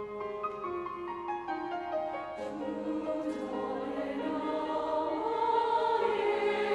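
Church choir singing an anthem with piano accompaniment: the piano plays alone at first, the choir's voices come in about two and a half seconds in, and the sound grows louder toward the end.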